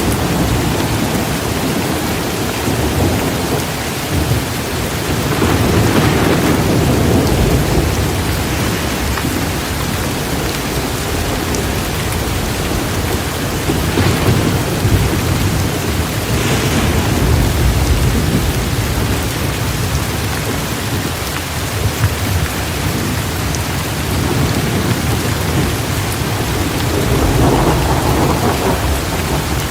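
Heavy rain pouring steadily in a thunderstorm, with low rolling thunder swelling and fading about three times.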